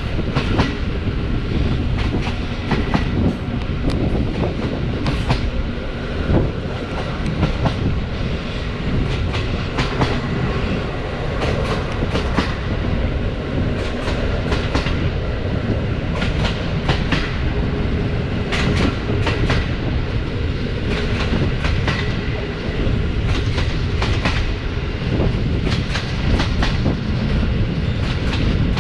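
Passenger carriage of a running train, wheels rumbling steadily on the rails with many sharp knocks and clicks over rail joints coming irregularly, some in quick clusters.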